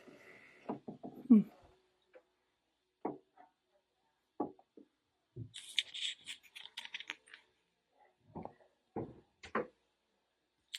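Scattered light knocks and thumps, with a brief rustling stretch about six seconds in.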